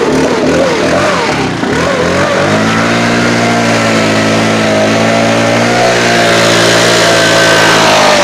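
Stihl BR 600 backpack blower engine just after a cold start following a freezing night outdoors. It runs unevenly with a wavering pitch for the first couple of seconds, then settles into a steady run, and the pitch shifts again near the end.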